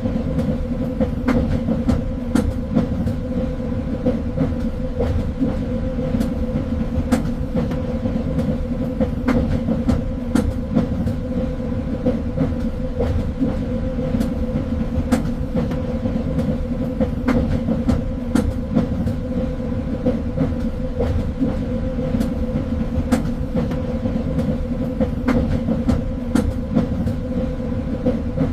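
Train running along the track: a steady low rumble with a constant hum, and scattered clicks and knocks from the wheels on the rails.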